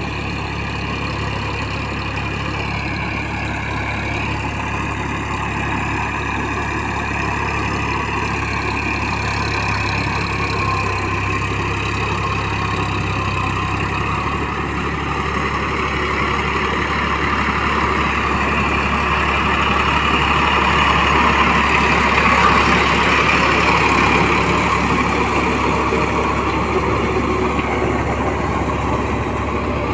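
Massey Ferguson 9000 diesel tractor running steadily under load while puddling a muddy field. The sound swells gradually to its loudest about two-thirds of the way through, then eases a little.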